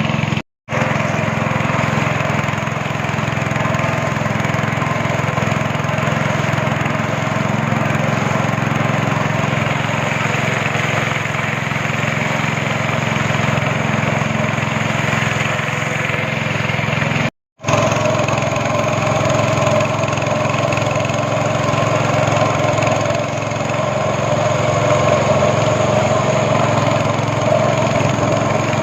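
Speedboat engine running steadily at cruising speed, a continuous motor drone over a rushing haze. It cuts to silence for an instant twice.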